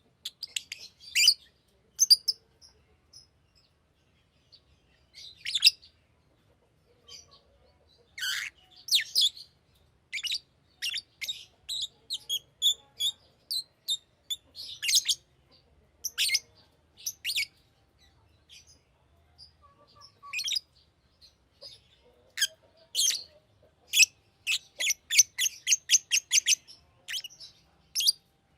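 Green lovebird chirping: short, sharp, high-pitched chirps in irregular bursts with brief pauses, ending in a fast run of rapid chirps.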